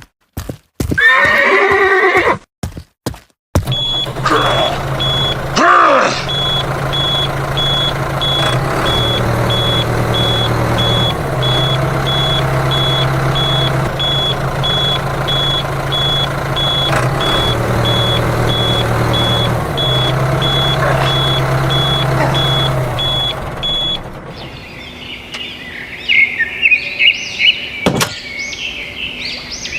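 A horse neighing, with a few sharp knocks in the first seconds. Then a long steady mechanical hum runs with a high beep repeating at an even pace, and after it stops, birds chirp.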